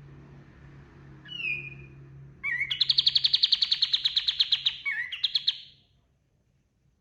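Kapas tembak bulbul singing: a short call, then a loud, fast trill of about ten notes a second lasting a little over two seconds, ending in a short closing phrase.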